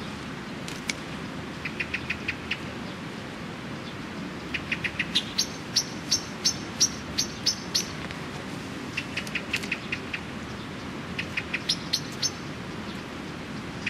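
A small songbird singing, repeating short phrases of quick, evenly spaced chirps every few seconds.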